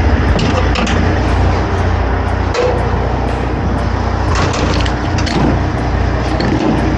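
2005 Kenworth T800 diesel truck running, a steady low engine drone under rumbling road and cab noise, with scattered small clicks and rattles.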